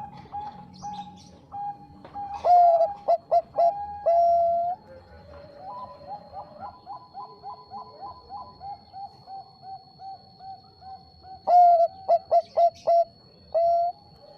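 Zebra dove (Bangkok perkutut) cooing. Two loud phrases of rapid staccato coos, each ending in a longer drawn-out coo, come about two seconds in and again near the end, over a softer, even run of short repeated coos. A faint steady high whine runs beneath from about three seconds in.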